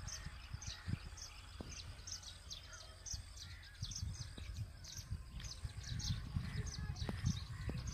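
Small birds chirping repeatedly, short high chirps several times a second, over a low rumble that grows louder from about halfway.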